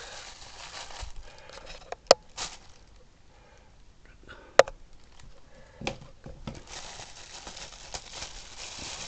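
Hands handling craft materials on a table: light rustling and crinkling, with two sharp clicks about two and four and a half seconds in.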